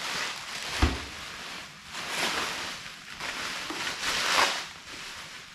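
Packaging rustling and crinkling in swells as parts are unwrapped and lifted out, with a single knock a little under a second in.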